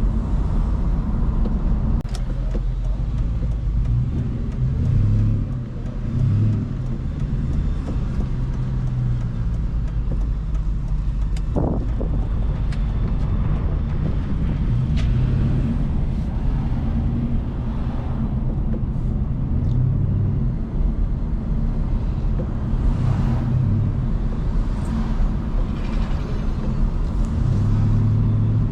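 A car engine running steadily with road noise, its low hum swelling now and then, as when cruising. One brief sharp noise near the middle.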